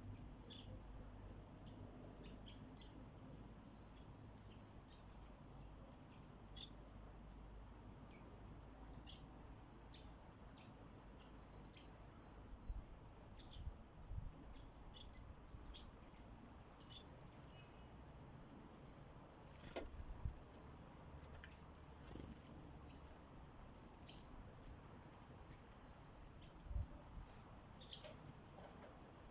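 Sparrows chirping faintly at a bird feeder in many short, high chirps throughout, with a few sharp knocks about two-thirds of the way in and again near the end.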